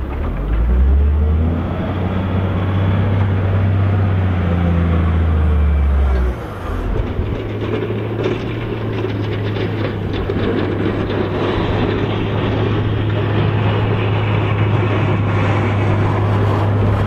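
Heavy diesel engine of snow-clearing farm machinery running steadily, its low engine note changing abruptly about six seconds in, then running on steadily.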